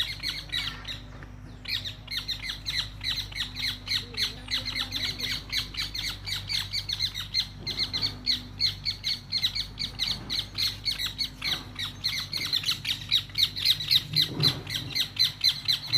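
Birds giving rapid, repeated squawking alarm calls, several a second, agitated by a small turtle crossing the road.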